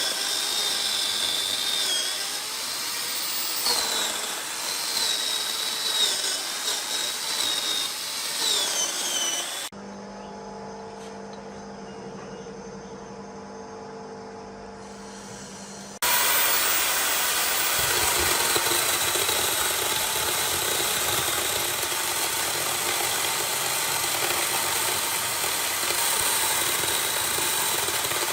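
Chainsaw cutting into wood, its engine pitch wavering under load. About ten seconds in the sound cuts suddenly to a quieter steady hum for some six seconds, then loud steady running starts again just as suddenly.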